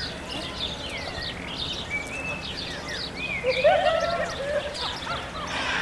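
Several small birds singing and chirping over one another in quick, overlapping phrases, with a louder, lower warbled call about three and a half seconds in.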